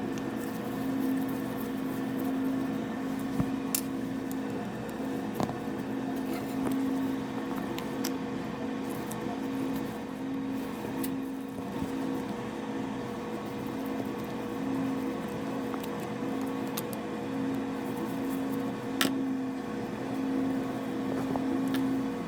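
A steady electrical hum that swells and fades about once a second, with a few light clicks and taps from work on metal parts.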